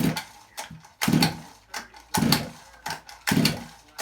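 Choked CC Racing Zenoah two-stroke engine being pull-started on its recoil starter, a cold start. Three hard pulls about a second apart, with smaller pulls between them. Each one cranks the engine over briefly, and it does not keep running.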